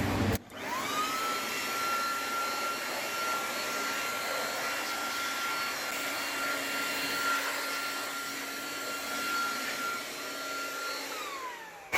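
A small high-speed electric motor moving air, vacuum- or blower-type, spins up within the first second. It runs steadily with a high whine over a rush of air, then winds down, its pitch falling, near the end.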